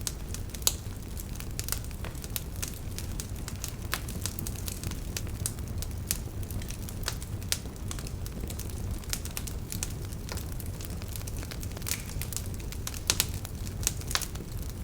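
Wood fire burning in a fireplace: a steady low rumble of flames with irregular sharp crackles and pops, the loudest pops about a second in and near the end.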